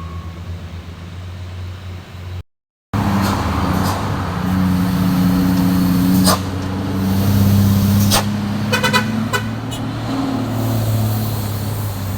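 Loaded heavy truck diesel engines crawl uphill with a steady low drone, which cuts out completely for about half a second near the start. A vehicle horn gives a few quick toots about nine seconds in.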